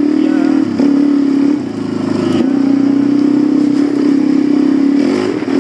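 Suzuki DR-Z400 single-cylinder four-stroke dirt bike engine running at a steady throttle, with a couple of brief dips in revs in the first two seconds.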